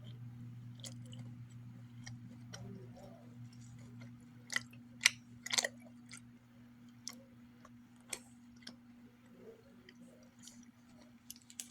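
A person chewing a chewy granola bar with peanuts and almonds, with short sharp crunchy clicks, the loudest bunched together around five seconds in. A steady low hum runs underneath.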